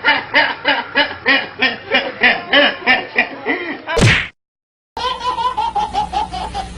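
Laughter sound effects: a person laughs in steady, rhythmic 'ha-ha' pulses, about three a second. About four seconds in, a sharp, loud hit-like sound ends it and there is a brief dead silence. Then a different, higher-pitched laugh with quicker pulses begins.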